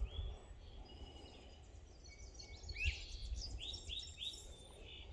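A songbird singing outdoors: one short whistled note at the start, then a quick run of three or four repeated slurred whistles about three seconds in, over a low steady rumble.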